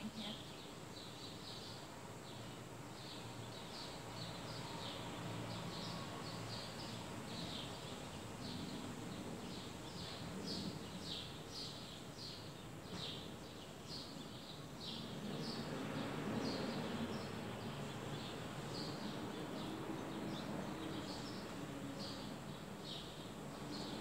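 A small bird chirping over and over, about two short chirps a second, over a steady low outdoor rumble.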